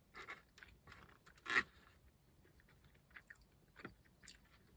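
Faint, scattered short crunching and scraping noises, five or six of them, the loudest about one and a half seconds in.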